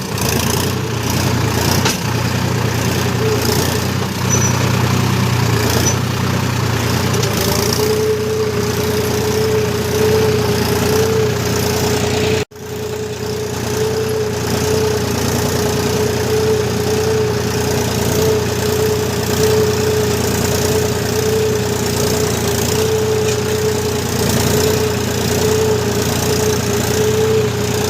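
Tractor engine running steadily. About eight seconds in, a steady whine joins it and holds. The sound cuts out for an instant about halfway through.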